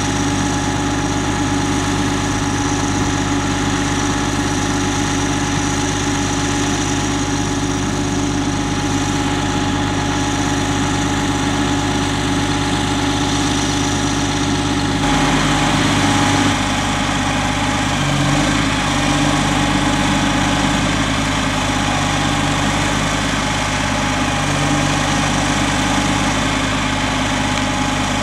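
Diesel engine of a Caterpillar trail-grooming tractor running steadily. About halfway through, a harsher hiss joins the engine hum.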